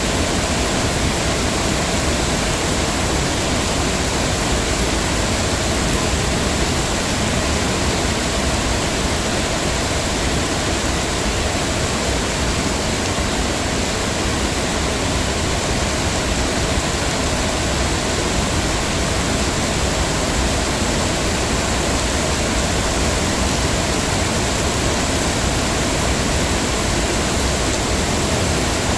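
Heavy rain falling in a steady, even hiss, with no breaks or separate sounds.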